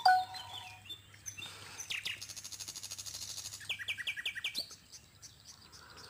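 Wild birds chirping and calling, with a fast ticking trill about two to three and a half seconds in and a quick run of short falling notes about four seconds in.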